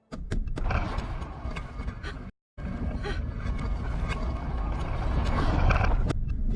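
Loud rushing, rumbling noise with a heavy deep low end and no clear tone. It cuts to silence for a moment about two seconds in, then carries on.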